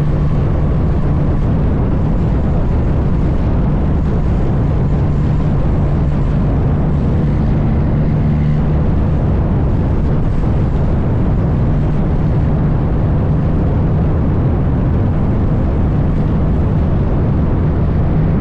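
Heavy diesel truck running steadily at cruising speed, a constant low drone of engine and road noise with a steady hum, no shifts or changes in pitch.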